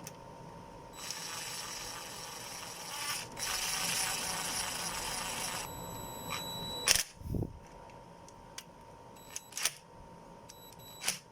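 Ratchet turning an 8 mm hex bit socket to run the cylinder head bolts down on a Toyota 1NZ-FE engine: a few seconds of fast ratchet clicking and metal scraping, then a handful of separate sharp metal clinks.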